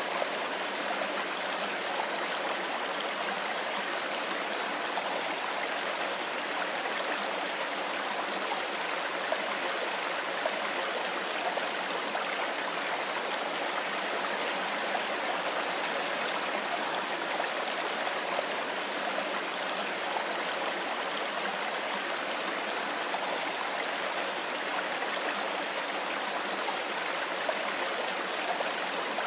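Mountain river flowing over stones: a steady rushing and babbling of water.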